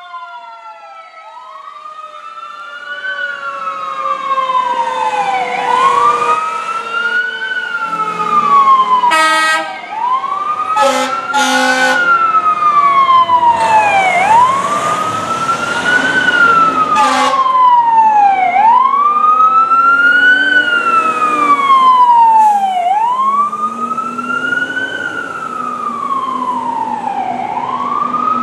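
Fire engine responding with its siren wailing up and down in slow cycles, growing louder as it approaches. A lower siren tone falls slowly underneath for the first several seconds, and several short horn blasts come at about a third of the way in and again a little later.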